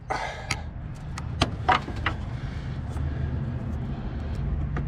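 Sharp clicks and a brief scrape of hands working a plastic engine-wiring connector whose retaining clip is broken, several clicks in the first two seconds, over a steady low hum.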